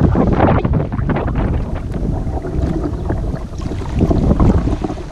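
Wind buffeting the microphone on open water: a loud, gusting rumble, with light splashing from the kayaks on the water.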